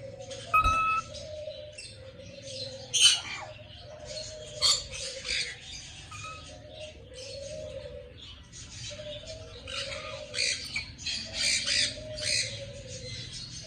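A crowd of aviary birds squawking and chirping over one another, with a few sharper, louder calls standing out in the first five seconds.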